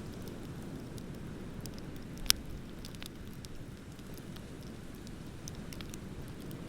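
Wood bonfire crackling, with scattered small pops and one sharp, loud pop a little over two seconds in, over a steady low rush of ocean waves.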